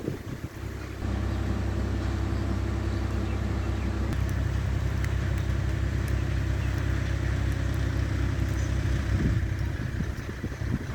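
Swaraj 969 FE tractor's diesel engine running at a steady speed, coming in suddenly about a second in.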